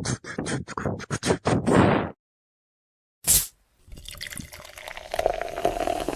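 Logo sound effect: a rapid run of sharp, drip-like plinks for about two seconds, a short hit after a pause, then a watery pouring sound that fades out near the end.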